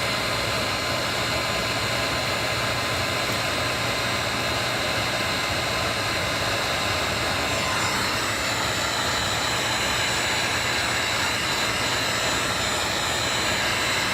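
A handheld hot-air blower runs steadily, a loud rush of air with a fan whine, heating the iPad Air's glued screen to soften the adhesive before prying. The whine changes pitch a little about halfway through.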